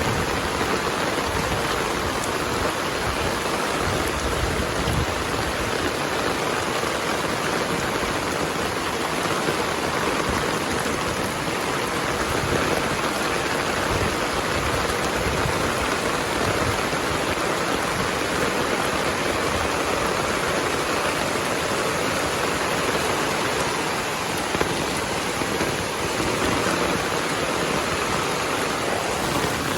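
Heavy rain falling steadily as a dense, even hiss of drops.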